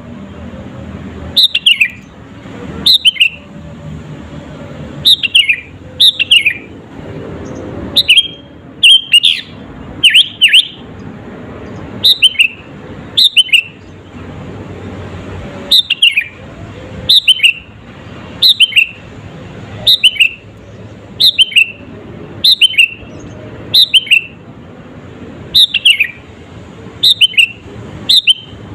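Sooty-headed bulbul (kutilang) singing over and over in short phrases of two or three quick, clear falling notes, about one phrase every second or so. A steady low background noise runs underneath.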